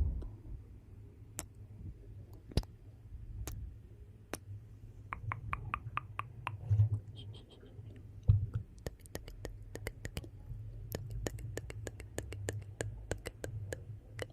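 Wood fire in a fireplace crackling: irregular sharp pops and snaps that come in quick clusters, over a steady low rumble of the flames, with a couple of soft low thuds in the middle.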